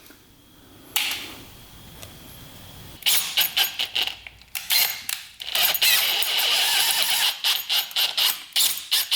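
Power drill running in short bursts, boring out the hole of a seized screw so it can be retapped a size larger.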